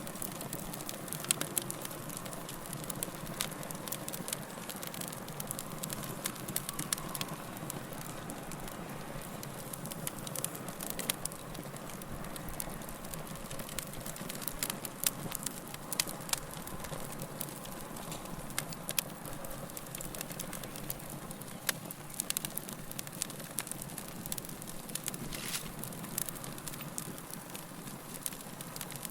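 Wood fire burning steadily, with frequent sharp crackles and pops of burning logs over a soft, steady hiss.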